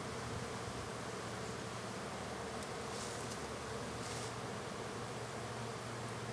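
Honeybees buzzing steadily around an opened hive, the dense, even hum of many wings from a disturbed colony.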